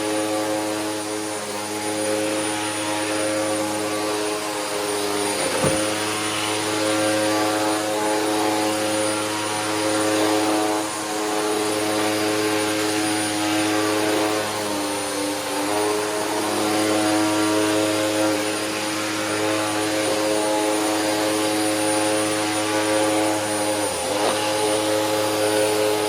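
Hoover Max Capacity upright vacuum running with a steady motor whine over airflow hiss as it is pushed over carpet. The whine dips and recovers briefly a few times, and there is a short knock about six seconds in and again near the end.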